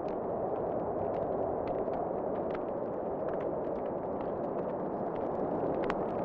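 Fireplace crackling, with scattered sharp pops and snaps at irregular moments over a steady rushing of wind.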